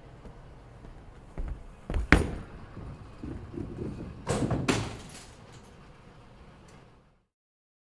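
A handful of sharp knocks and bangs over a low background. The loudest is a double bang about two seconds in, and a second pair of bangs comes a little after four seconds, followed by lighter clicks.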